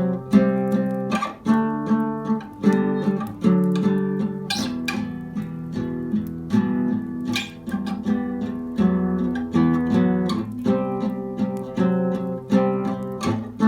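Spanish classical guitar played slowly and evenly, its chords strummed with downstrokes and a melody line sounding through them.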